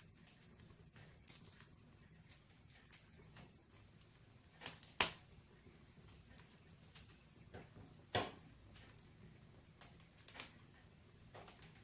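Wood fire burning in a fireplace, crackling with scattered small pops, two louder pops about five and eight seconds in.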